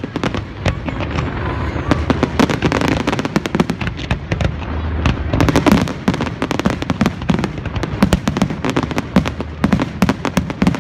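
Aerial fireworks display: shells bursting in a rapid, irregular string of sharp bangs and crackles, several a second, with no pause.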